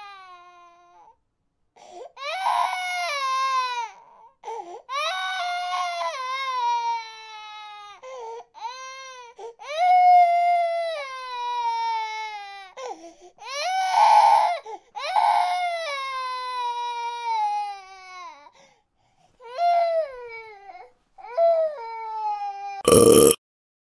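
Baby crying sound effect: a long run of drawn-out wails, each sliding down in pitch, with short breaks between them. A brief loud burst comes near the end.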